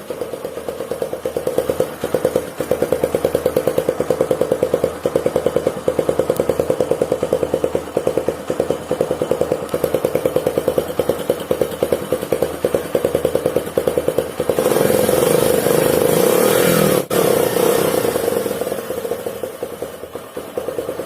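Bajaj Discover 100M motorcycle's single-cylinder engine running, its exhaust passing through a tin can taped over the silencer outlet as a homemade trick to make it sound like a KTM Duke. It idles with a fast, even pulsing beat, is revved up harder for a couple of seconds about fifteen seconds in, then drops back to idle.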